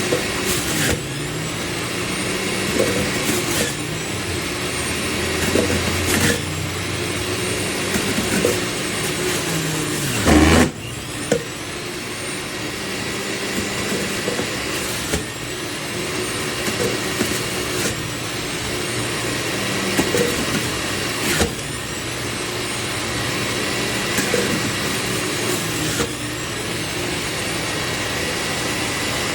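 Electric juice extractor's 400 W motor running steadily, with scattered knocks and clatter from the chute, the loudest about ten seconds in.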